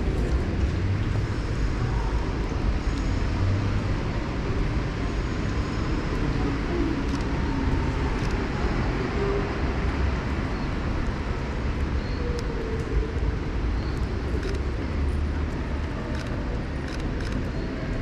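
Steady city ambience: a low rumble of traffic, with a few faint ticks in the second half.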